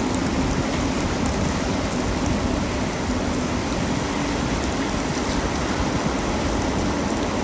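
Steady rushing noise of wind buffeting the microphone over flowing river water.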